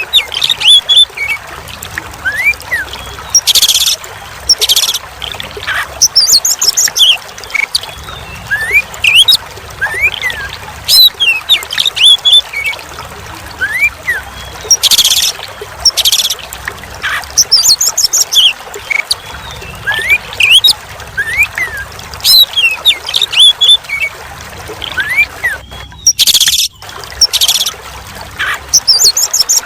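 Oriental magpie-robin singing over a steady trickle of running water. The song is a run of short rising and falling whistles, broken every few seconds by harsh, rasping calls.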